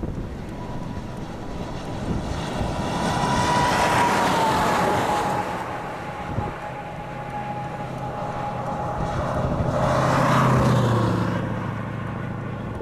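Vehicles passing by on a road, one after another. The first goes by about four seconds in, with a whine that drops in pitch as it passes; the second, with a lower engine note, goes by near the end.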